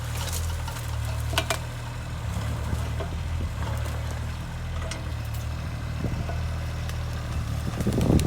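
Diesel engine of a JCB 8016 mini excavator running steadily at low revs, with a couple of brief sharp clicks.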